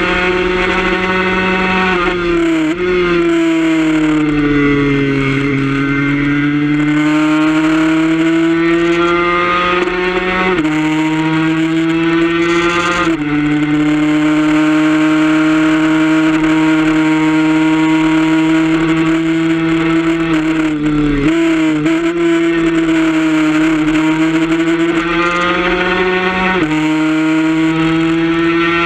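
Suzuki RG150 two-stroke single-cylinder engine running hard at high revs, heard onboard during a race lap. Its pitch sags and climbs through the corners, with several sudden jumps at gear changes.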